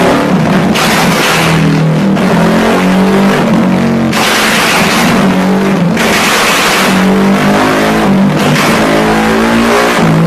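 Single-cylinder 150cc four-stroke engine of a modified Yamaha Y15ZR motorcycle being revved in several loud bursts through its exhaust.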